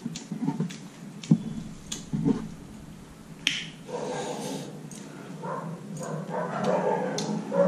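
Close mouth sounds of eating rice and curry by hand: wet lip smacks and chewing clicks, several separate ones, then from about four seconds in a wavering, whiny pitched sound over the chewing.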